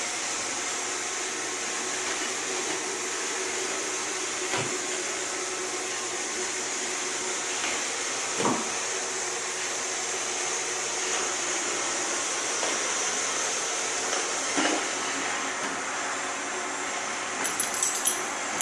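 Roomba robot vacuum running with a steady high whir, with a few single knocks along the way and a quick run of clicks near the end.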